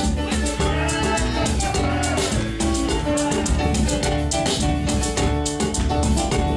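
Instrumental band music with a drum kit keeping a steady beat under bass and melody notes.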